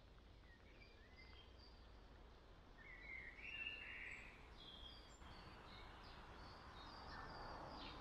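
Near silence in woodland: faint bird calls, scattered short chirps, the clearest about three seconds in.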